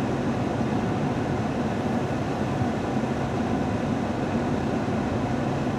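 Steady low rumbling noise from a stopped train, with no sudden events.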